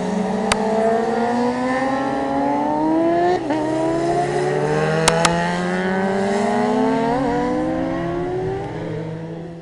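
Racing motorcycle engine accelerating with rising pitch, changing up a gear about three and a half seconds in and again about seven seconds in, over a steady low hum. A few sharp clicks, one early and two close together about five seconds in.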